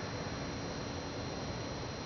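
Steady hiss of background noise with two faint steady high-pitched tones running through it; no distinct knocks are heard.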